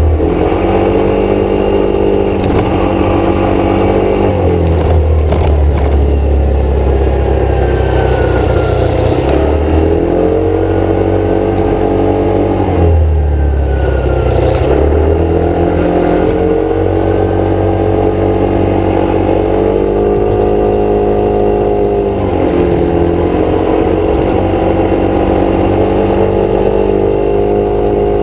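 Motor vehicle engine running steadily, its pitch dropping and climbing in steps several times as the engine speed changes.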